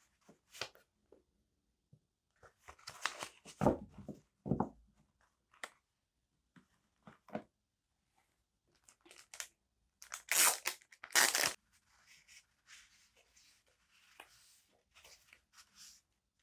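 Paper stationery and its packaging being handled and torn open by hand: scattered rustles and crinkles, with two louder clusters of tearing about a quarter of the way in and about two-thirds through.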